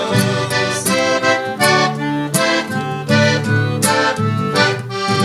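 Piano accordion with acoustic guitar playing the closing instrumental bars of a song in rhythmic chords, reaching a held final chord at the very end.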